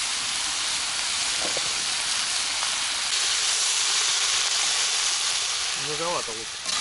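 Meat, onions and freshly added carrots sizzling in hot oil in a black metal kazan for plov, a steady hiss that grows a little louder about halfway through.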